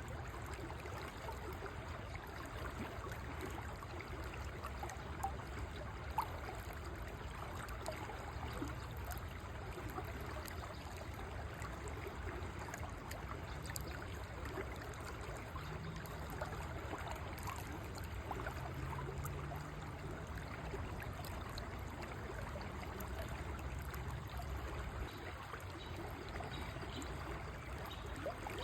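River water flowing steadily over stones, a continuous trickling rush with a low rumble beneath it.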